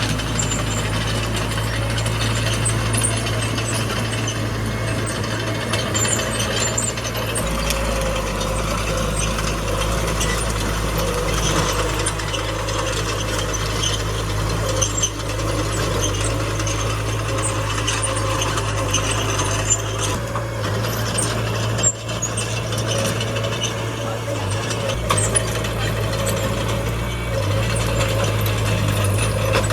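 Small crawler bulldozer at work: its diesel engine runs steadily, with the engine note shifting a few times, over a constant clatter and squeak of the steel tracks and running gear.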